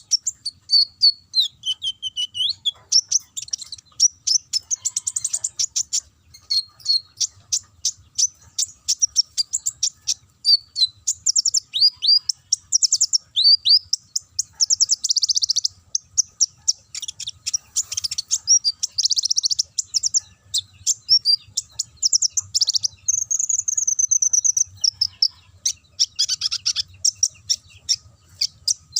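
A kolibri ninja (konin), the brown-throated sunbird, singing non-stop in a loud, high-pitched run of quick chirps, swept whistles and rapid trills. It strings together canary-style phrases.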